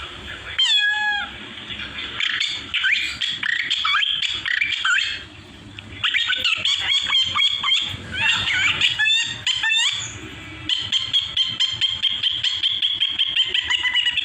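A man mimicking bird calls with his mouth, the myna and starling calls he is known for: whistled up-and-down glides and chirps, then a fast run of repeated chirps in the second half.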